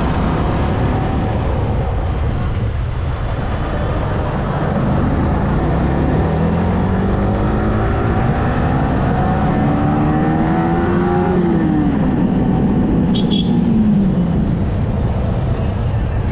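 Yamaha R15M motorcycle's single-cylinder engine on the move under heavy wind and road rumble. Its pitch rises in steps from about five seconds in, as it accelerates up through the gears, then falls away again near the end as it slows.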